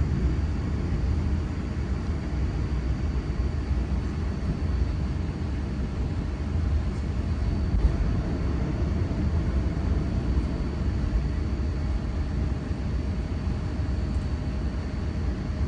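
Steady low rumble of a V set intercity electric train running on the track, with a faint steady high whine over it.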